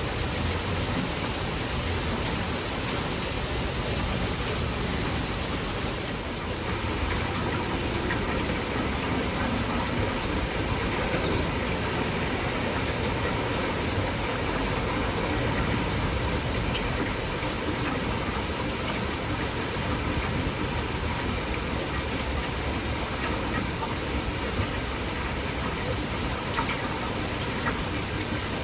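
Heavy, torrential rain falling steadily: a dense, even hiss with no breaks.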